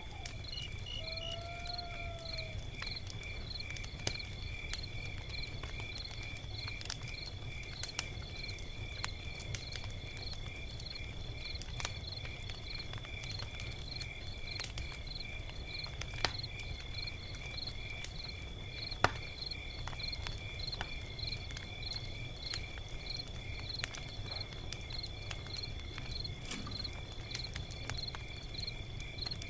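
Log fire crackling with scattered sharp pops, a few standing out, over a low steady rumble of the flames. Insects chirp in an even rhythm throughout, and a short rising-and-falling call sounds about a second or two in.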